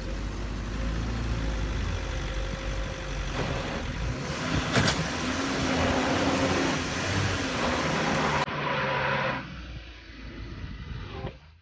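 SUV engine running and revving amid heavy noise, the sound changing abruptly about eight and a half seconds in and fading toward the end.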